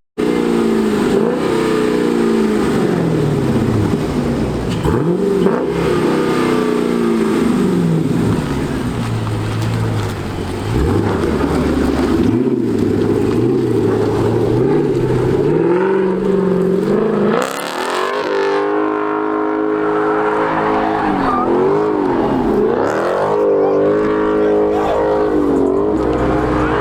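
Car engines revving loudly, the pitch climbing and falling again and again as the throttle is blipped; about 17 seconds in the sound changes to a steadier run of rising and falling revs.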